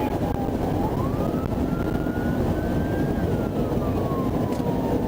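Police car siren on a slow wail, its pitch rising for a couple of seconds and then falling again, over heavy, steady road and engine noise from the patrol car driving.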